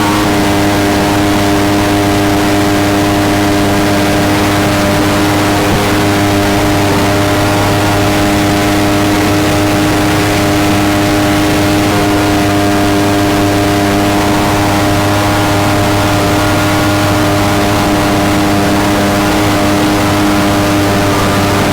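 Mini jet boat's engine running at a steady speed under way, its note holding almost constant over a hiss of wind and water.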